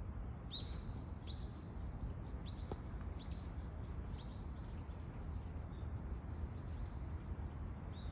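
Small birds chirping: a quick run of short, high chirps, about two a second, then a longer, flatter call near the end, over a steady low background rumble.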